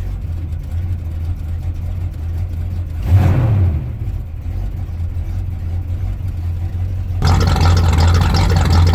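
1974 Chevrolet K10's engine running cold with a steady low rumble; the engine has not yet caught its idle. It gives a short rev about three seconds in. About seven seconds in, a steady hiss suddenly joins and the engine sounds louder.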